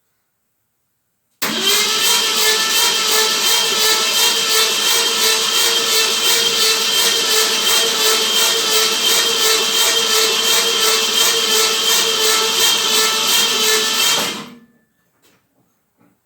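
Starter motor cranking a Ford 302 V8 for about thirteen seconds with a steady, even pulse. The engine spins freely but does not fire; this is its first spin on the starter after the rebuild. The cranking starts abruptly and stops near the end.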